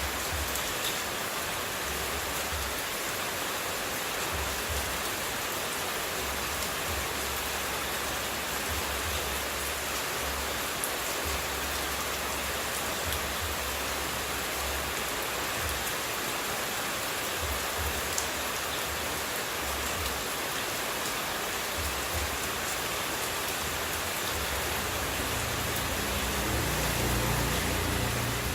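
Running water played as white noise for sleep: a steady, even rushing hiss with a low rumble that comes and goes, swelling slightly near the end.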